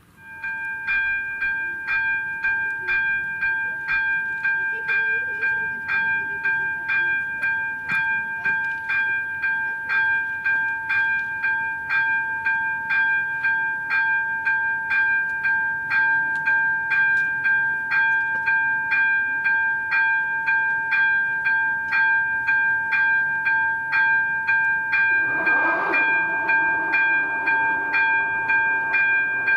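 ZV-02 electronic level-crossing bell ringing at a steady pace of about two strokes a second, sounding the crossing warning. About four seconds before the end a brief rush of noise rises under the ringing.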